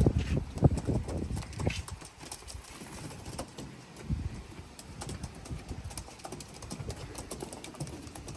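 Irregular taps and knocks, heavier for about the first two seconds, then light scattered clicks.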